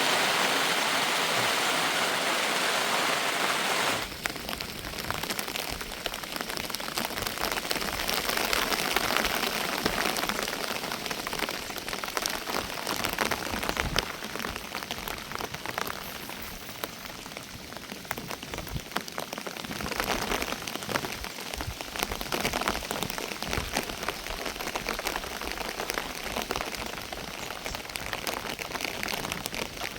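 Heavy rain falling. For the first four seconds it is a dense, even hiss; then the sound changes abruptly to steady rain with many separate drops clicking on a hard surface.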